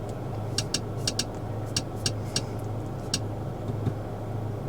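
Mercedes-AMG CLA 35's 2.0-litre turbocharged inline-four idling, a steady low hum heard from inside the cabin. Over it come about eight light clicks of the infotainment controls being pressed, most of them in the first three seconds.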